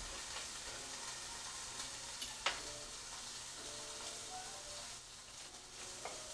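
Seasoned half chicken sizzling as it browns in hot olive oil in a pan: a steady frying hiss, with a sharp click about two and a half seconds in.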